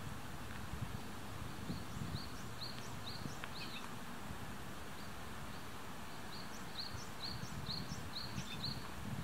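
A small bird calling in two runs of short, quick chirps, two or three a second, over a steady outdoor hiss and low rumble.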